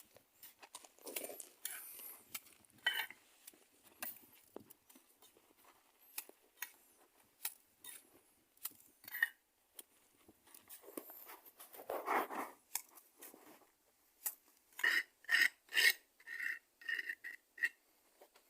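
Scattered light clicks and scrapes, with a quick run of short squeaky scrapes about three-quarters of the way in.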